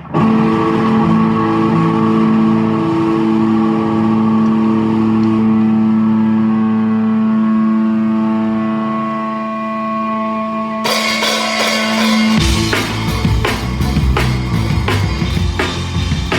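Live rock band: an electric guitar chord rings out held and sustained for about eleven seconds, then drums come in with cymbal hits, and the full band with bass kicks in shortly after.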